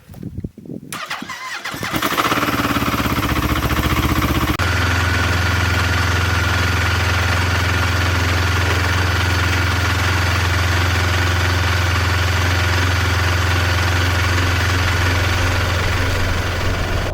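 An engine being cranked and catching about two seconds in, then running steadily; about four and a half seconds in its note changes abruptly to a deeper, even run.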